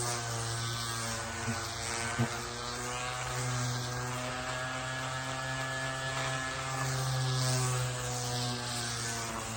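Electric pad sander running steadily on stained wood, a constant motor hum with slight wavering in pitch. Two light knocks about two seconds in.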